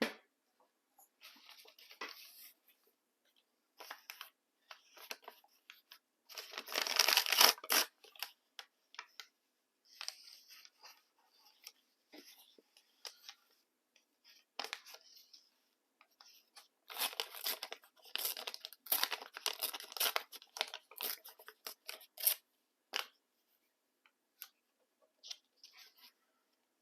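Paper being handled and torn: irregular short rustles and rips, with a longer, louder stretch about seven seconds in and a dense run of crackling between about seventeen and twenty-two seconds.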